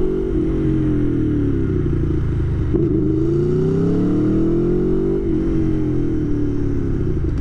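Aprilia Tuono V4 1100 Factory's V4 engine running on the move, heard from inside the rider's helmet. Engine speed falls over the first few seconds, climbs again, then falls once more near the end.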